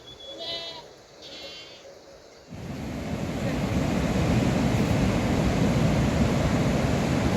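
Two short animal calls about a second apart, then heavy rain that starts suddenly about two and a half seconds in, builds, and holds as a steady loud hiss.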